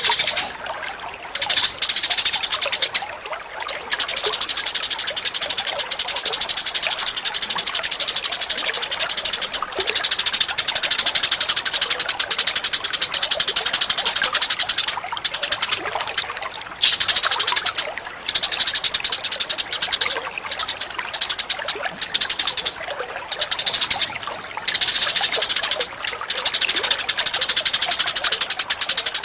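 Birdsong tutor recording: dense, rapid chattering and trilling bird calls in long runs broken by short pauses, built from cucak cungkok, tree sparrow and kingfisher calls.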